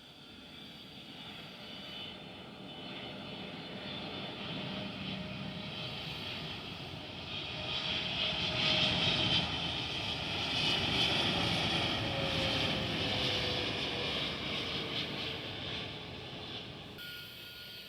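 Airplane engines passing by: the noise swells over several seconds, is loudest in the middle, then fades, with a whine that drops slightly in pitch as the aircraft goes past.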